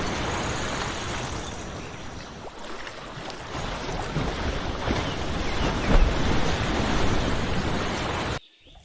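Ocean water and waves rushing as a steady noise, with a louder surge about six seconds in; it cuts off abruptly near the end.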